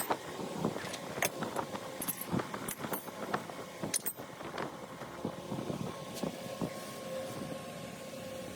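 Irregular metallic clinks and knocks of tools and engine parts being handled, over a faint steady hum.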